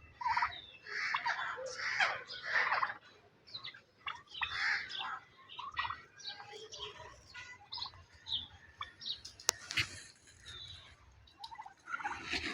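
Domestic turkeys calling repeatedly, with other backyard fowl chirping among them. A single sharp click about nine and a half seconds in.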